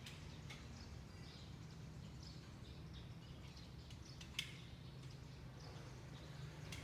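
Faint, scattered chirps of small birds over a steady low background rumble. A single sharp click sounds about two-thirds of the way through.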